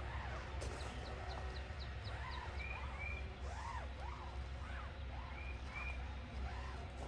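Several birds chirping and calling, with short arched notes throughout and a quick run of high ticks in the first two seconds, over a steady low rumble.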